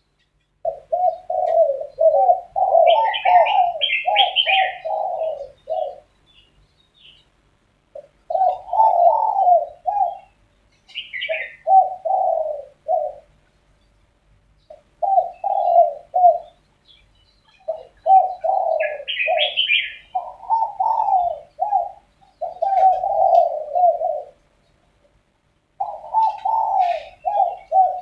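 Spotted doves cooing in repeated low phrases, bout after bout with short pauses, as if answering one another. A smaller bird chirps higher a few times in between.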